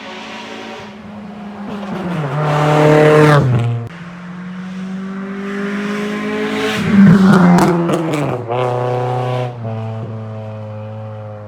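B20-engined Acura Integra's four-cylinder revved twice from idle through its exhaust. The first rev climbs and cuts off sharply about four seconds in; the second, the loudest, peaks about seven seconds in and falls back to a steady idle.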